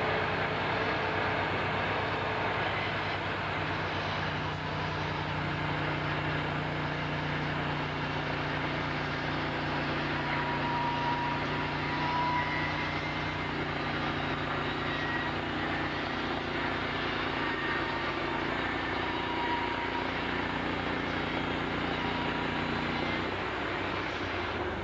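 Sawmill running: a steady engine drone that shifts slightly in pitch about three-quarters of the way through.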